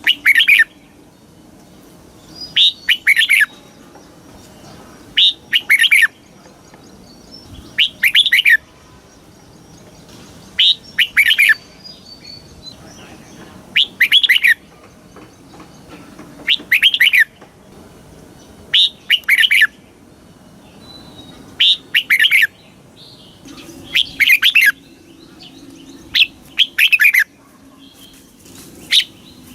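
Red-whiskered bulbul singing: short, bright, warbling phrases of about a second, each made of a couple of quick notes, repeated every two to three seconds.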